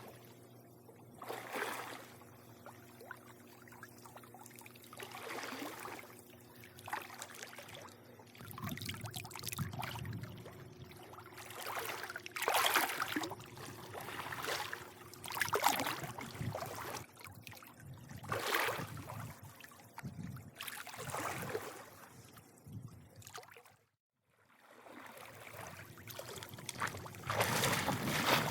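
Swimming-pool water lapping and sloshing in irregular swells every second or two, over a faint steady hum. The sound cuts out completely for a moment near the end.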